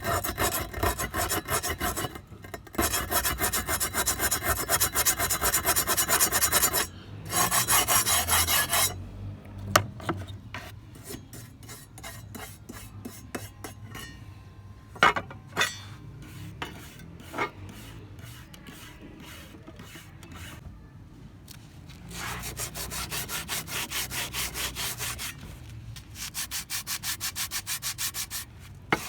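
Rapid back-and-forth rubbing strokes of hand abrasive work on an old trowel under restoration. Long steady runs of strokes come at the start and again near the end, with a quieter stretch in the middle that holds a few scattered taps and clicks.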